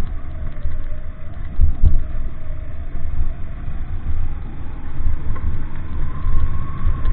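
Motor vehicle engine running with a heavy, uneven low rumble. A faint engine whine rises in pitch near the end.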